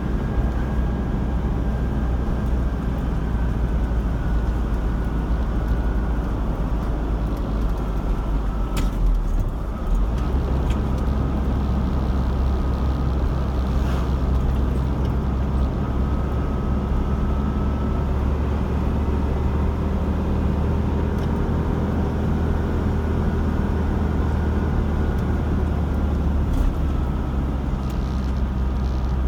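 Car being driven at steady speed: continuous engine and road rumble, with a brief dip in the low rumble about ten seconds in.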